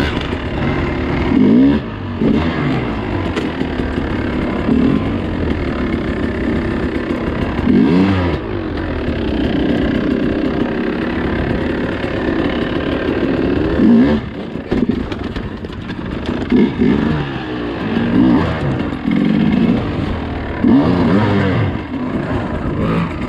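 Dirt bike engine revving up and down over and over as it is ridden on rough off-road terrain, with sharp throttle bursts about a second and a half, eight and fourteen seconds in.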